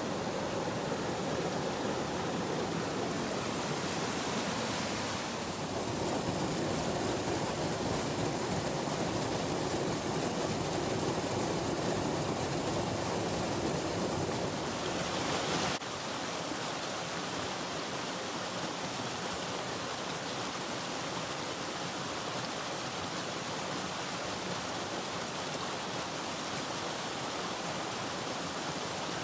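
Mountain stream rushing over rocks, a steady wash of water. About 16 s in the sound drops abruptly to a slightly quieter, thinner rush.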